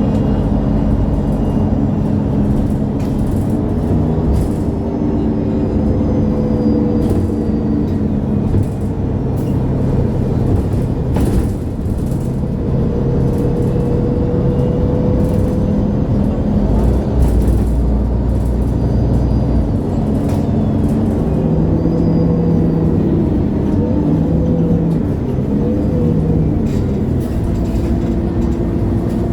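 MAN A23 Lion's City G articulated city bus (NG323) heard from on board, its engine running steadily as the bus drives. The engine note shifts up and down several times.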